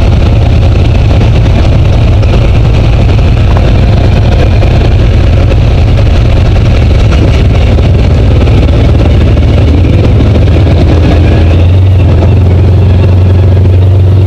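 Side-by-side UTV engine running steadily under way on a trail, heard from the passenger seat as a loud, even low drone that settles into a steadier tone near the end.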